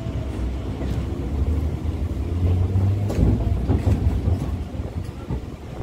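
Kolkata suburban electric local train (EMU) running along the track: a steady low rumble that swells a little midway, with a few sharp clicks.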